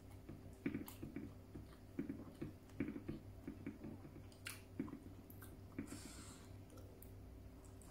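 Close-miked chewing of a mouthful of rice and fish, soft wet mouth clicks coming irregularly, thickest in the first half. A steady low hum runs underneath.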